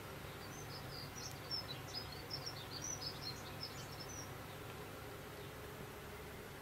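A quick run of short, high chirps, like a small bird twittering, from about half a second in to about four seconds in, over a steady low hum.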